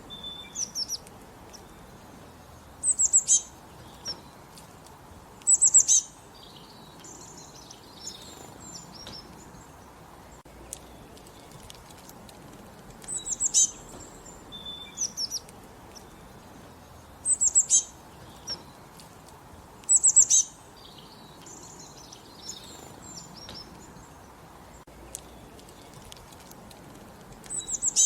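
Songbirds singing: a short, high, loud phrase of quick notes repeats every few seconds, about six times, with softer chirping in between.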